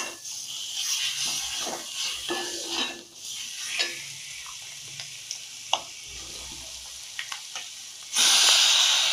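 Chicken pieces sizzling in hot masala in a frying pan as they are stirred with a metal perforated ladle, with light scrapes and taps of the ladle against the pan. The sizzle jumps much louder about eight seconds in, as more raw chicken drops into the hot oil.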